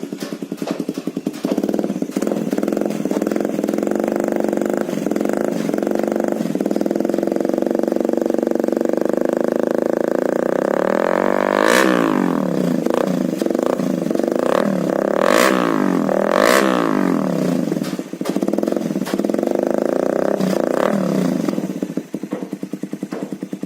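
Suzuki Satria FU's 150 cc four-stroke single-cylinder engine running through a stainless-steel aftermarket racing exhaust with a bassy tone. It is held at a steady raised rev, then blipped sharply a few times around the middle, and drops back to a lumpy idle near the end.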